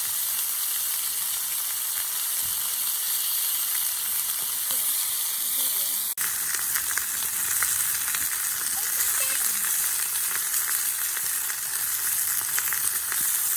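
Food sizzling steadily in a cast-iron skillet over a campfire. The sound cuts out for an instant about six seconds in, then carries on.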